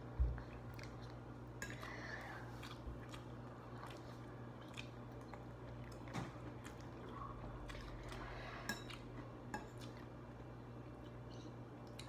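People quietly eating, chewing pizza pockets and rice, with small mouth smacks and faint clicks. There is one low thump just after the start, over a steady low hum.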